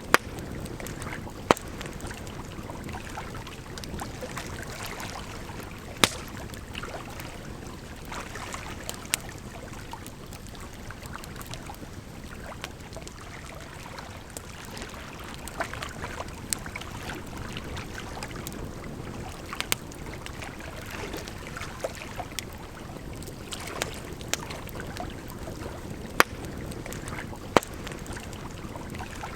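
Campfire crackling, with sharp pops at irregular intervals, over a steady rush of flowing water.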